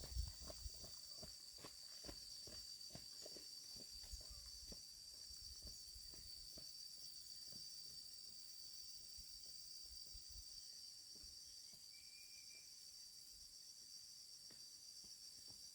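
Faint, steady high-pitched chirring of insects, with irregular light taps or clicks over the first half that thin out and stop.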